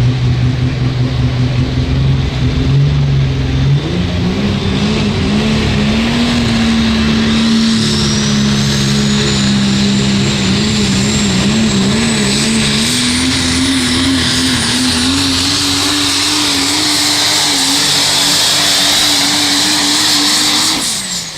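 Diesel puller's engine at full throttle dragging the sled. Its pitch steps up about four seconds in and then climbs slowly, wavering, while a high turbo whistle rises over it. Near the end the engine note falls away sharply as the throttle is closed.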